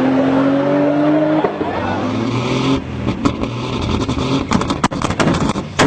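Tuned car engine revving, its pitch climbing for a few seconds. It then comes off the throttle into a rapid string of exhaust pops and bangs from anti-lag or backfire, with a last sharp bang near the end.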